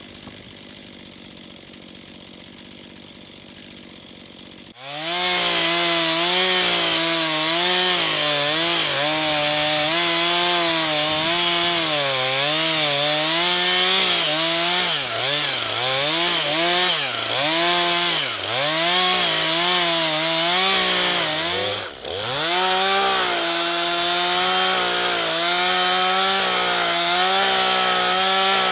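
Chainsaw ripping lengthwise through a pine log to cut slabs freehand. It cuts in suddenly about five seconds in after a quieter stretch and runs at high revs, its pitch dipping and recovering over and over as the chain loads up in the cut. It briefly drops off about three-quarters of the way through, then picks back up.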